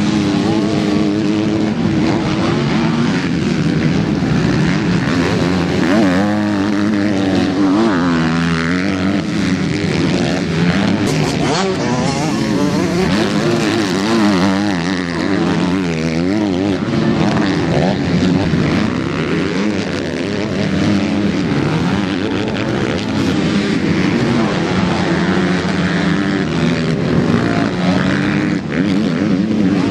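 Several MX2-class motocross bikes racing, their engines revving up and down repeatedly and overlapping as riders work the throttle around the track.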